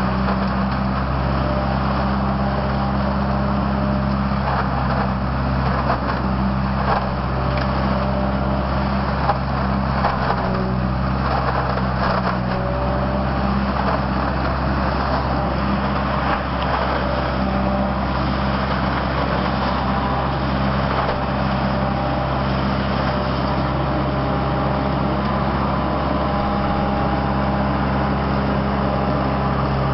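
Truck-mounted leaf vacuum collector running: a steady engine and fan drone, with scattered clicks and rattles through the first half.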